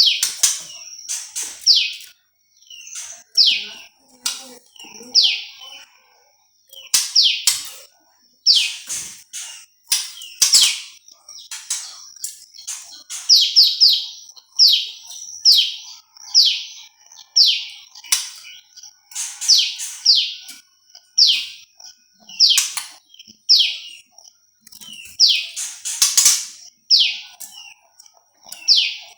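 Prenjak lumut songbird calling: sharp, quick downward-sliding chirps repeated about once a second, sometimes in short doubled or tripled runs, over a thin steady high tone.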